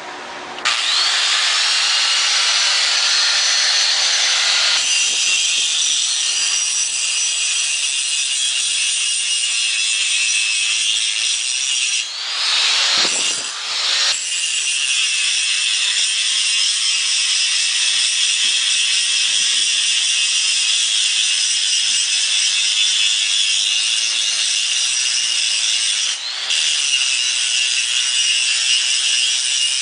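Angle grinder running against steel, a loud, steady, high-pitched grinding that starts about a second in with the motor spinning up. It breaks off briefly twice, near the middle and again later, before biting in again.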